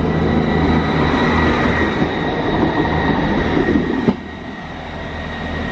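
Diesel passenger train running through the station as it departs: a steady rumble with a thin high whine. It grows quieter about four seconds in.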